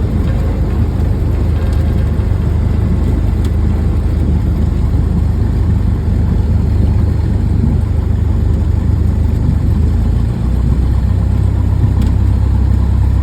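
Cessna's piston engine running steadily with a low drone, which shifts to a slightly different pitch about ten seconds in.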